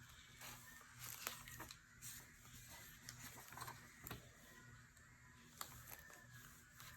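Faint chattering of birds, with a few soft taps and rustles of paper being handled.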